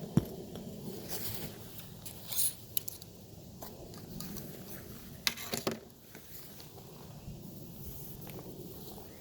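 Handling noises: scattered clicks, knocks and rustling, with the loudest pair of knocks a little past halfway.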